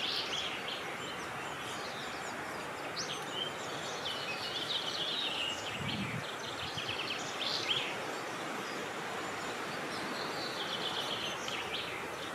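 Several short birdsong phrases, high-pitched, coming a few seconds apart over a steady rush of wind in the open air.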